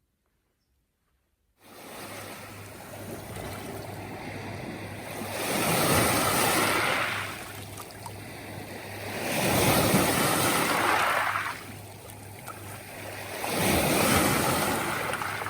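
Near silence for about a second and a half, then Lake Superior waves washing onto the beach, swelling and falling back three times about four seconds apart.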